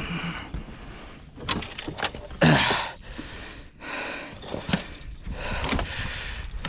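Handling noise in a boat: rustling, shuffling and knocks as a large musky is moved onto a measuring board, with the loudest knock about two and a half seconds in.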